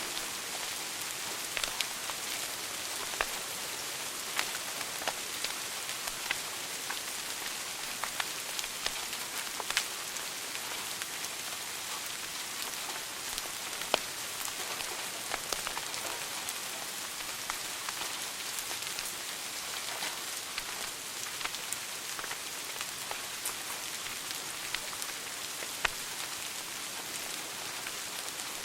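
Wood fire in a fireplace crackling: a steady hiss with many sharp pops and snaps scattered irregularly, one louder pop about halfway through.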